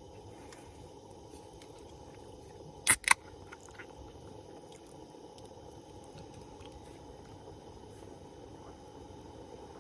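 Two sharp clicks in quick succession about three seconds in, over a steady low background hiss.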